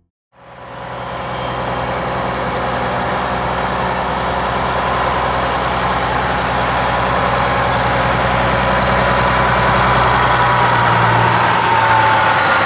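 Heavy diesel semi-truck engine running steadily, fading in at the start, with a whine that dips and then rises in pitch near the end.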